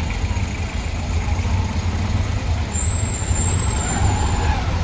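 Motor vehicle running, a steady loud low rumble of engine and road noise, with a thin high whine for a second or two from about three seconds in.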